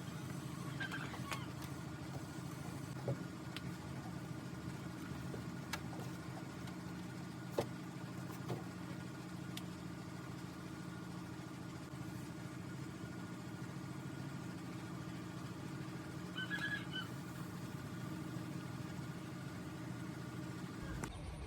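A steady low motor hum with a few faint clicks and knocks over it.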